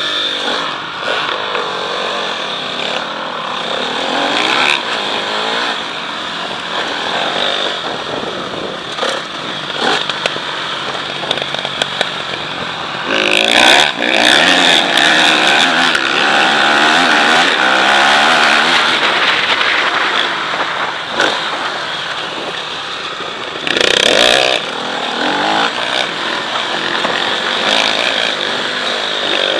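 Motocross motorcycle engine running and revving, its pitch rising and falling again and again. It is loudest through a long stretch in the middle, with one more short loud burst a few seconds later.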